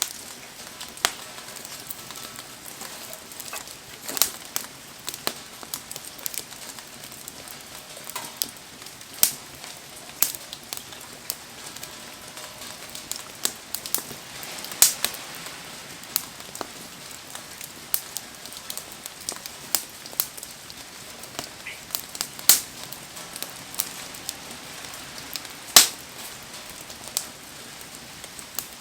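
Wood campfire crackling, with irregular sharp pops every second or so, a few much louder, over a steady hiss of falling rain.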